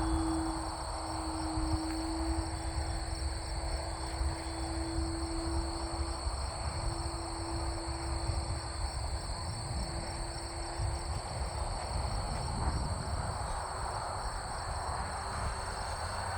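Electric RC Pitts biplane with a homemade exhaust whistle flying at a distance: a steady hum from its motor, propeller and whistle, fading out about two-thirds of the way through. Wind rumbles on the microphone, with a steady insect-like high buzz behind it.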